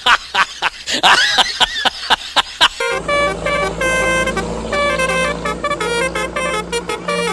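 Multi-tone 'telolet basuri' bus horn playing a tune. First comes a quick string of short, sharp toots, then about three seconds in a melody of held notes that change pitch every fraction of a second, over a low steady hum.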